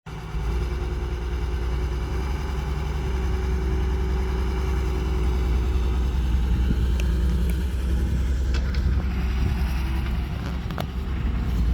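Heavy diesel machinery engine running steadily at a low, deep rumble, with a few short sharp knocks in the second half.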